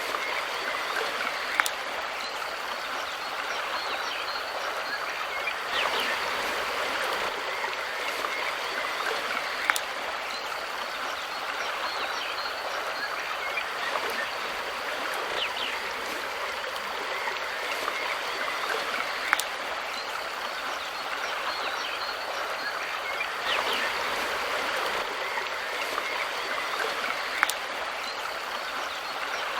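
Mountain river flowing steadily, with an even rush of water and four sharp clicks or splashes spaced about eight to ten seconds apart.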